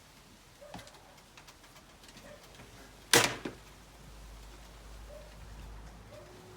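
One sharp, loud knock about three seconds in, with a lighter knock just after it and a few faint taps before, as of something hard being struck or set down on a frame.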